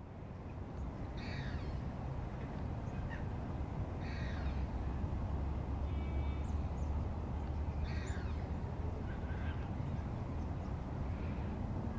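Birds calling in the background: a series of short harsh calls a second or few apart over a steady low rumble.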